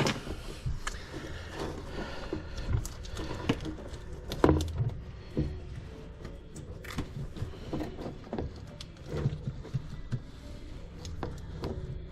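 Irregular light clicks, taps and knocks of hand-tool work with a flexible nut driver on drain pipe couplings.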